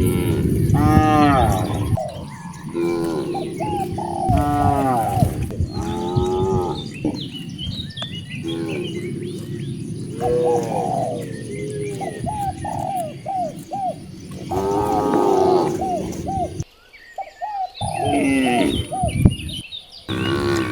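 A herd of cattle mooing, many short calls one after another and overlapping, with birds chirping in the background.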